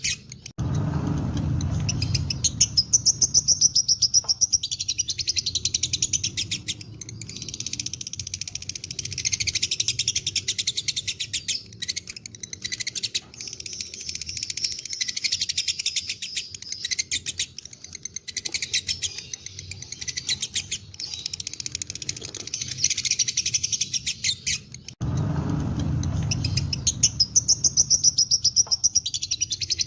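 Lovebirds chattering in long, rapid, high-pitched trills (the "ngekek" song), in bouts several seconds long. A low rumble sits under the trilling at the start and again near the end.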